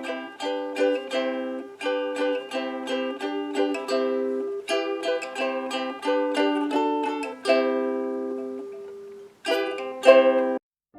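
Ukulele strumming chords in a steady rhythm, with a short pause near the end followed by two last strums.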